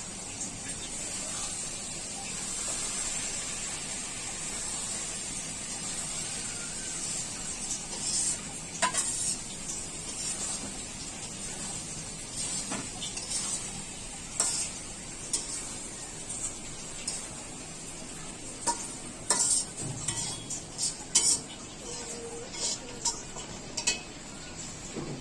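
Food sizzling in hot oil in a pan, a steady hiss throughout, while a spoon or spatula stirs it. The spoon scrapes and knocks against the pan in scattered clinks from about a third of the way in, coming more often near the end.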